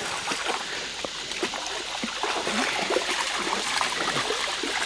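Creek water trickling and gurgling steadily, with many small gurgles and drips.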